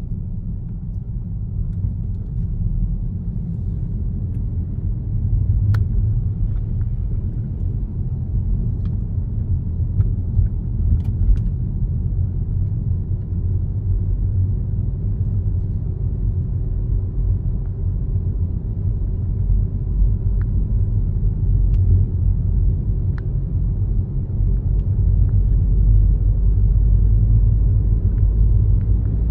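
Car driving on a road: steady low tyre and road rumble with a few small clicks, growing a little louder near the end.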